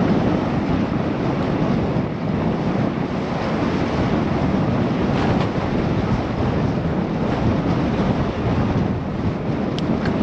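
Steady rush of wind over a GoPro's wind-screened microphone while riding a bicycle, a low, even rumble, with a couple of faint ticks near the end.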